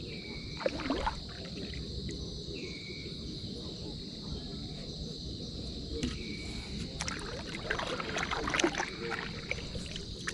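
Outdoor ambience by the water: a steady high insect drone over a low rumble of water and wind, with a few short chirps. In the last few seconds comes a cluster of irregular clicks and knocks.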